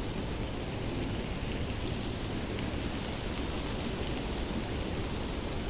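Steady outdoor noise of wind and water, an even hiss with a low rumble and no duck calls standing out.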